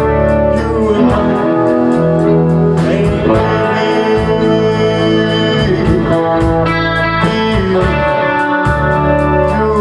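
Rock band playing live: sustained electric guitar and bass notes over a steady cymbal beat ticking about four times a second.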